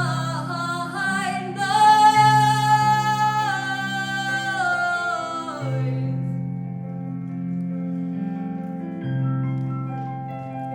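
A female solo singer sings sustained, wavering notes over instrumental accompaniment. The voice stops about six seconds in, and the accompaniment carries on alone with held chords and a bass note that changes every two to three seconds.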